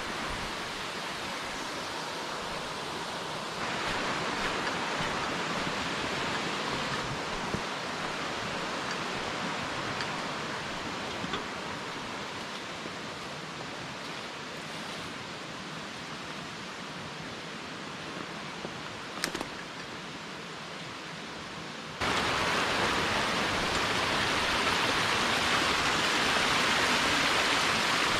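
Water of a small mountain headwater stream rushing steadily. It gets suddenly louder about three and a half seconds in, and much louder again about three-quarters of the way through.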